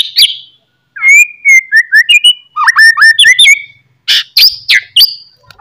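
A songbird singing loud, varied phrases: a run of short whistled notes, then quick sharp upward-sweeping calls, with brief pauses between phrases.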